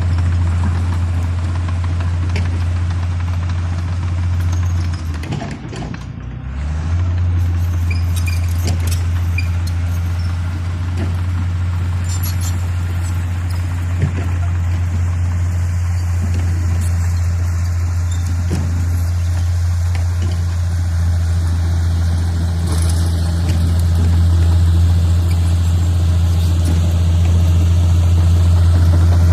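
Bulldozer's diesel engine running with a steady low drone. It dips briefly about six seconds in and grows a little louder near the end.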